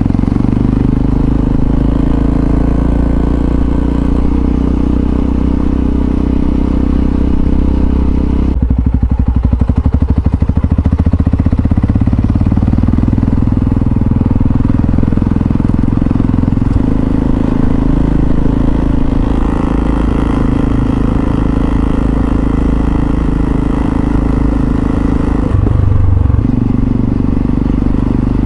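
Yamaha XT660Z Ténéré's single-cylinder engine running on the move. About eight seconds in the revs drop to a slow, distinct pulsing for a few seconds, then it pulls steadily again, with further changes in engine note later on.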